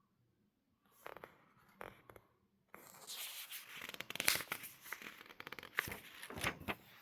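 Paper rustling and crinkling with scraping and small clicks, as if pages are being handled. It comes in short bursts at first and turns louder and busier from about three seconds in.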